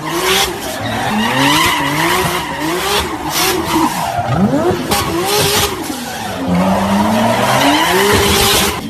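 Toyota Supra MK4's turbocharged inline-six revving up and down over and over while the tyres spin and squeal in a smoky burnout, with a few sharp pops from the 2-step launch limiter. The sound cuts off suddenly at the end.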